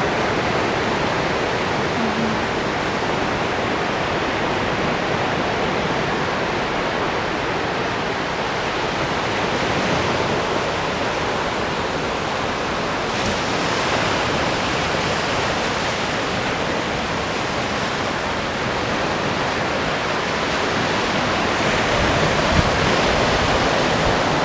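Ocean waves, a continuous rushing of surf that swells slightly louder now and then.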